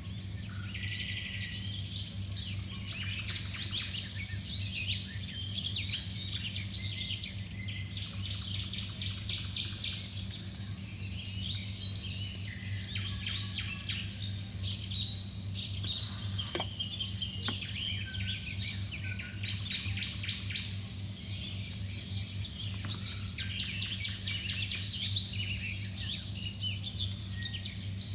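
Many small birds chirping and twittering at once, a dense unbroken chorus, over a steady low hum.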